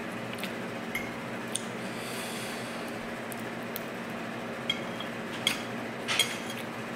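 Metal cutlery tapping and clinking against a plate during a meal: scattered sharp clicks, a couple of them with a short ring about halfway through and near the end.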